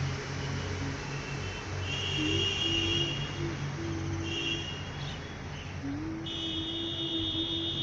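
Outdoor ambience of motor vehicles running, a steady low hum with a mid-pitched engine tone that rises and then holds. Short high steady tones come and go about three times.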